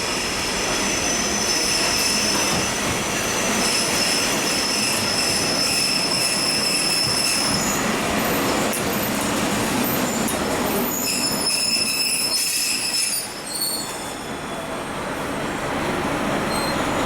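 Kashima Rinkai Railway diesel railcar moving through a station, its wheels squealing on the rails. The squeal is a set of high, steady tones that fade and come back, with a short lull about 13 seconds in.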